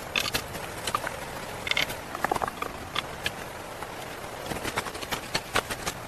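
Irregular light knocks and clicks, several each second and uneven in strength, over a steady background noise.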